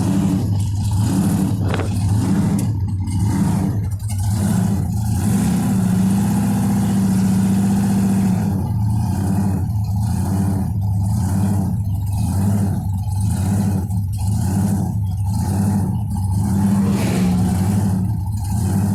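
Supercharged engine of a 1957 Chevrolet hot rod running as the car drives, heard from inside the car. It runs steadily, then settles into a regular pulsing lope about once a second in the second half.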